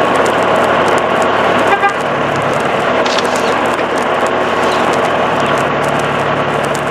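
Car horn tooting amid steady road-traffic noise, from an impatient driver behind.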